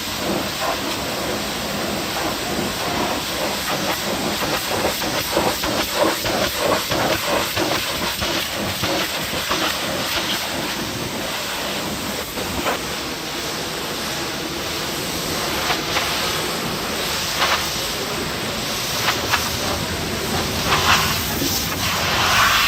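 Pressure washer spraying water onto a truck: a steady hissing spray, with a quick fluttering pulse a few seconds in and a few sharp clicks later.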